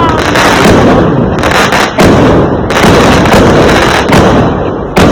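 Fireworks going off in a dense barrage: loud, sharp bangs at irregular intervals of about a second over continuous crackling and rumble, with a short falling whistle at the very start.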